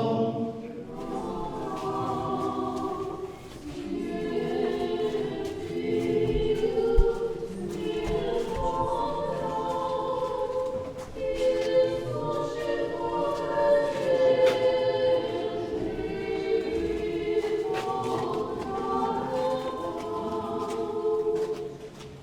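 Church choir singing unaccompanied Russian Orthodox liturgical chant in several voice parts, phrase after phrase with short breaths between them.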